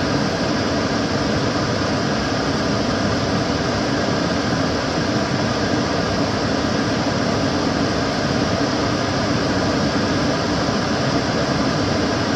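Kitchen cooker hood extractor fan running steadily: a constant rush of air with a low hum, unchanging throughout.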